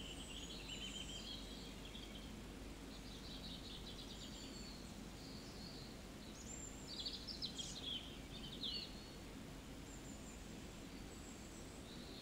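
Small birds chirping and trilling over a steady low background hum, with a cluster of quick calls about seven to nine seconds in.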